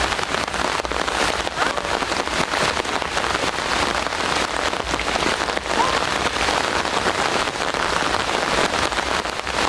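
Steady rain falling, with dense individual drops hitting close by.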